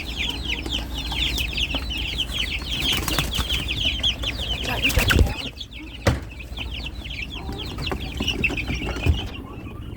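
Chickens calling in a dense chorus of short, high calls that thin out about halfway through, with a few sharp knocks of containers being handled.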